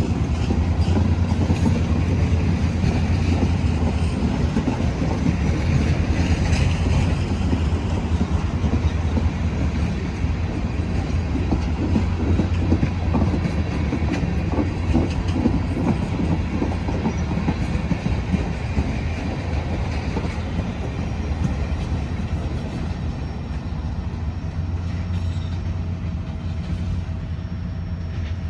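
Freight train rolling past, its wheels clicking and rumbling over the rails steadily, easing a little toward the end.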